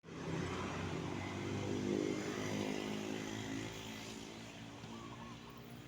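A vehicle engine running, loudest in the first couple of seconds and then fading gradually.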